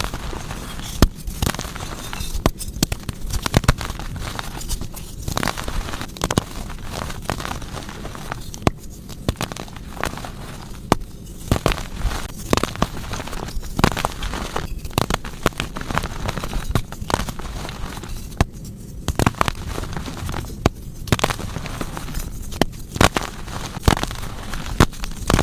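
Blocks of gym chalk being crushed, with a run of dry crunches and sharp cracks as the chalk breaks and crumbles into powder. It pauses briefly a few times between crushes.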